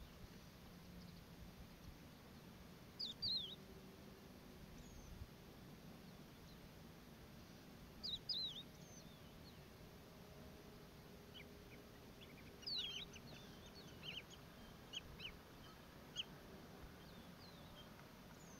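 Short, high bird chirps in a few brief bursts: one about three seconds in, one about eight seconds in, and a scattered run of separate chirps from about twelve to sixteen seconds, over faint steady background noise.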